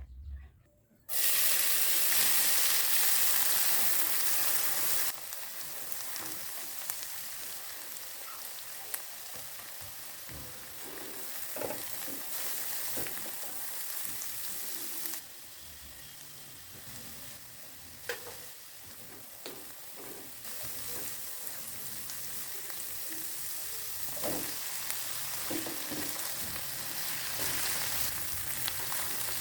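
Food frying in hot oil in a pan: a steady sizzle that starts suddenly about a second in, loudest for the first few seconds and then settling lower, with scattered light knocks of a utensil stirring.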